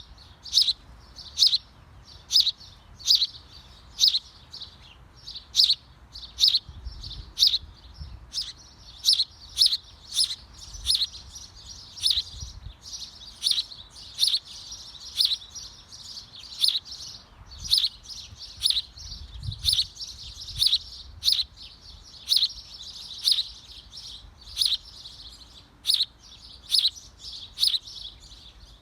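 A small bird chirping over and over, with short, sharp, high notes about three every two seconds and softer high chatter between them.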